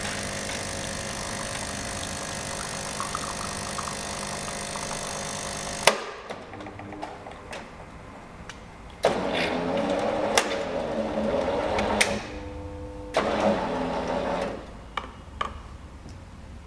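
Bean-to-cup espresso machine making a single coffee: its grinder runs steadily for about six seconds and stops with a sharp click. Then the pump runs in two loud spells a second apart as the coffee brews, with a few clicks from the brewing unit in between.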